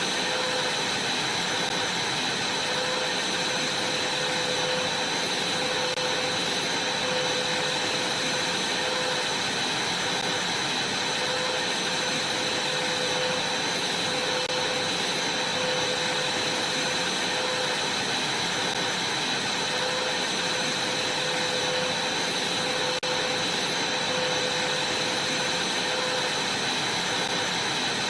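Vacuum cleaner running steadily: a rushing suction noise with a high, steady whine and a lower hum that wavers gently.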